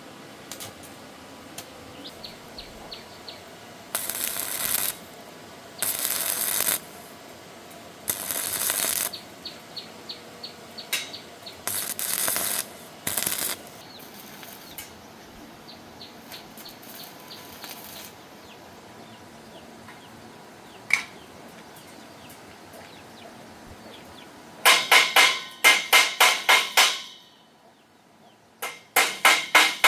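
A few short bursts of harsh noise, each about a second long. Near the end come two quick runs of hammer blows on metal, several strikes a second.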